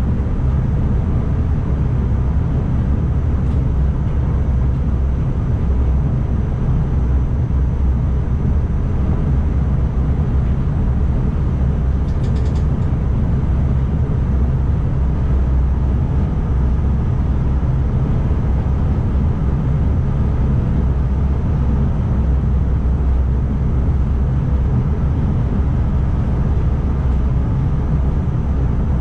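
ICMm electric multiple unit running at speed, heard from inside the driver's cab: a steady low rumble with a faint constant high whine. A short run of clicks is heard about twelve seconds in.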